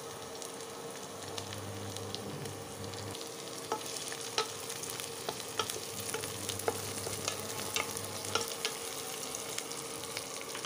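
Onions, tomatoes and whole spices sizzling in hot oil and ghee in a stainless steel pressure cooker. From about four seconds in, a wooden spatula stirs them, with sharp clicks against the pan.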